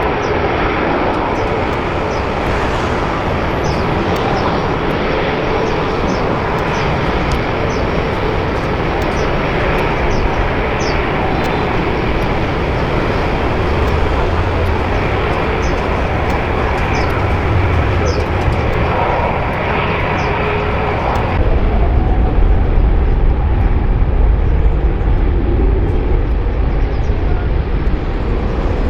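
Jet airliner engine noise, a steady loud rush. About two-thirds of the way through it changes abruptly to a deeper rumble with less hiss.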